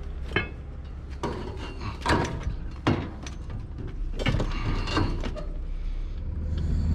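A series of about six sharp knocks and clatters from objects being handled or set down, over a steady low engine hum that grows louder near the end.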